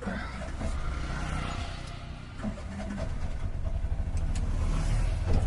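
A vehicle engine running, growing gradually louder, with a few light clicks near the end.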